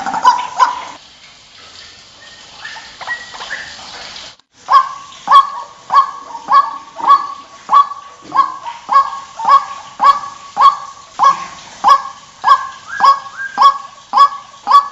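White-breasted waterhen calling. After a few seconds of softer calls, it breaks into a steady run of loud, repeated croaking notes, nearly two a second.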